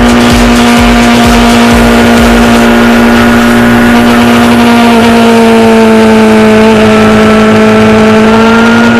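Motorcycle engine running loud at steady high revs, one held note throughout, with a second engine note sliding slowly downward in the second half.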